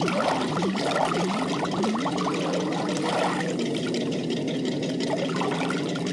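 Liquid pouring steadily into a tank compartment as it fills, over a steady low hum.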